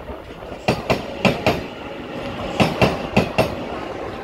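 Taiwan Railway EMU900-series electric commuter train rolling through the station, its wheels clacking over rail joints in quick pairs as each bogie passes, over a steady rumble.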